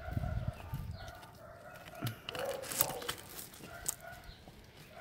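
A bird calling again and again in short pitched calls, fairly faint.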